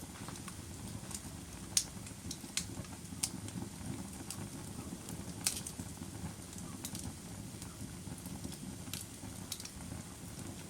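Fire crackling: about a dozen irregular sharp pops and snaps over a steady low noise of the burning, with the loudest pops about two and five and a half seconds in.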